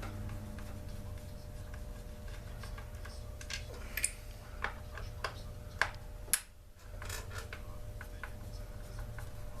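Scattered light clicks and taps of tools and small plastic and metal parts being handled as a Poulan Pro chainsaw is taken apart, clustered in the middle, over a steady low hum.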